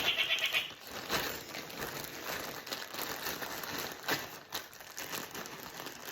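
Plastic packaging bag crinkling and rustling as it is handled, with a few sharper crackles. A pet bird's pulsed squawk runs into the first moment, then stops.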